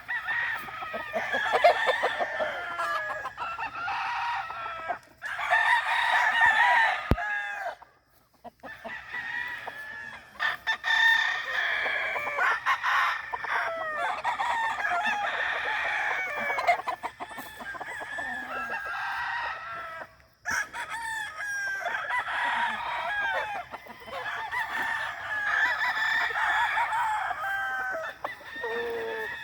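Gamefowl roosters crowing over one another, with chickens clucking among them. The sound cuts out abruptly twice, once about a third of the way in and once about two-thirds through.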